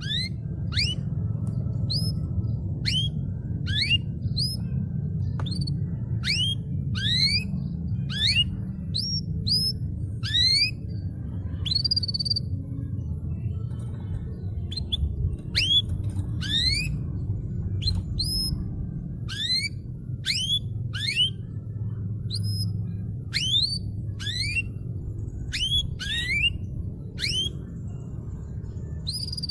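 Canary singing a long series of quick rising whistled notes, about one a second, over a steady low rumble.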